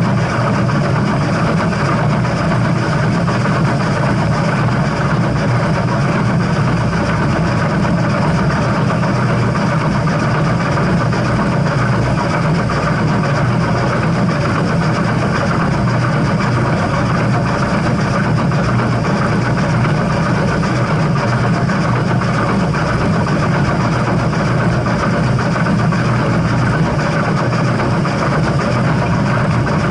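Steady low rumble from a steam train, even throughout, with no chuffing beat, whistle or speech.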